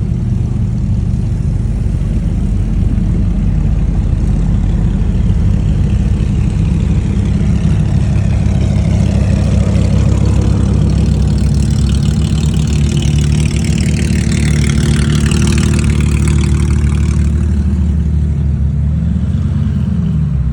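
Car engine idling steadily and loud close by. A swell of higher, sweeping noise builds through the middle and fades away before the end.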